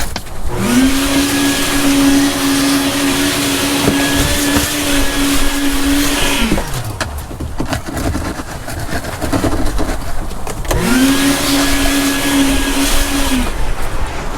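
Electric power sander spinning up, running steadily with a hum and the hiss of sanding, and winding down; it runs twice, for about six seconds and then for about three.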